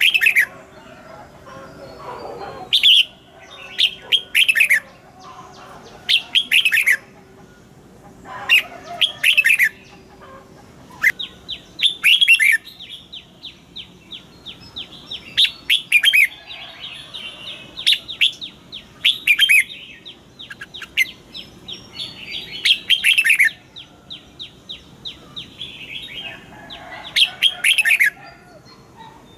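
Red-whiskered bulbul song: short, loud whistled phrases that fall in pitch, repeated every second or two, with a long fast chattering run of rapid notes between about 11 and 19 seconds in.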